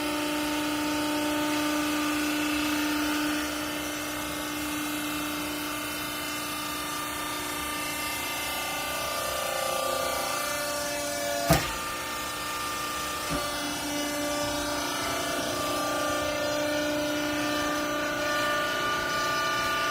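Hydraulic baler's power unit, an electric motor and pump, running with a steady whine whose pitch shifts as the load changes a few seconds in and again about halfway. A single sharp knock comes a little past halfway, with a lighter one shortly after.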